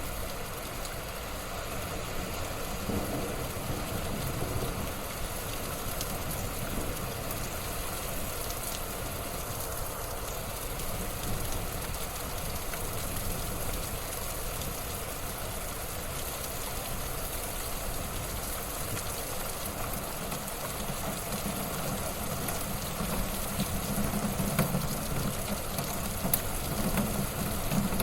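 Wood fire burning in a fireplace: a steady crackle and hiss with a low rumble, and scattered sharper pops, one standing out near the end.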